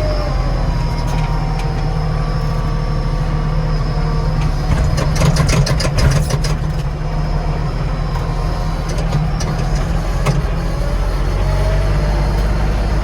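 Small tractor's diesel engine running while pushing snow, its pitch sagging and rising as the revs change under load, with a burst of rattling clatter about five seconds in.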